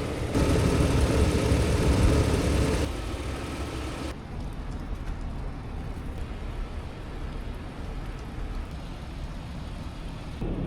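Car driving, a steady rumble of engine and road noise; it is louder and brighter for the first few seconds, then drops suddenly to a quieter, duller hum about four seconds in.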